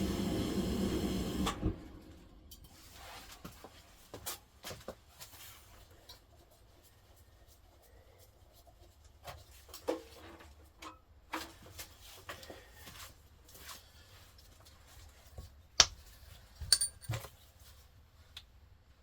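Scattered light knocks and metal clinks of parts and tools being handled, after a steady machine-like hum cuts off about a second and a half in.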